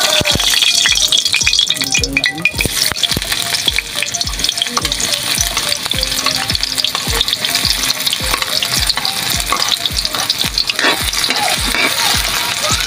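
Chopped red chillies, shallots and garlic sizzling and frying in hot oil in a wok, with a metal spoon and ladle clinking and scraping as they are pushed in and stirred.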